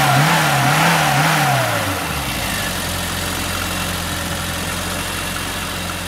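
Car engine revved up and down in quick, even blips, about two a second, then settling to a steady idle about two seconds in.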